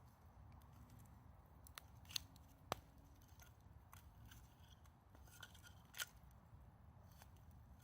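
Campfire crackling faintly: a few scattered sharp pops and snaps from the burning wood, the loudest a little over two seconds in and again about six seconds in, over a low steady rumble.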